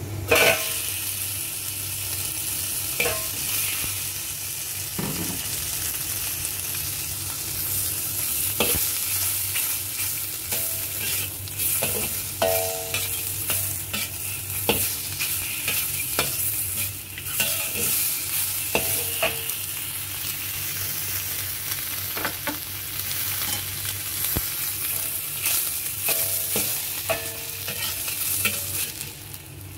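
Scallop slices sizzling in hot oil in a wok, the frying hiss jumping up about half a second in as they are tipped in. A metal spatula scrapes and clinks against the wok as they are stir-fried.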